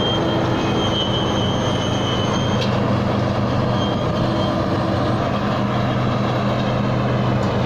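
Thai Seng rice combine harvester's engine running steadily under heavy load as the machine works through thick, sticky paddy mud. A thin high whine rides over the engine and stops with a click about two and a half seconds in.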